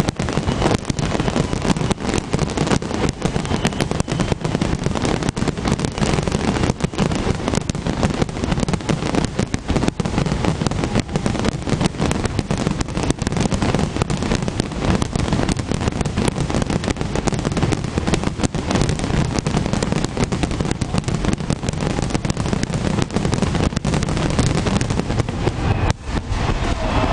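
Fireworks display: a dense, unbroken barrage of bangs and crackles, many explosions a second, dipping briefly near the end.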